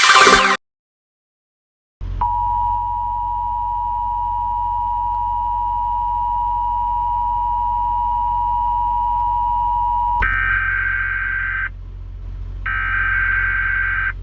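Two-tone emergency alert attention signal, the kind that announces a tornado warning, held steady for about eight seconds after a short silence. It gives way to a higher alert tone sounding in bursts of about a second and a half with short pauses, over a low steady hum.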